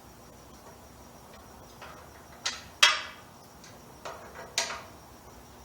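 Hand work on a small minibike engine on the bench: about five sharp clicks and knocks of hard parts being handled and fitted, the loudest about three seconds in, as the air cleaner is put back on.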